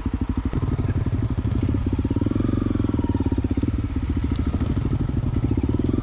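Honda CRF250L's single-cylinder engine running at low revs, pulsing steadily and getting louder about half a second in.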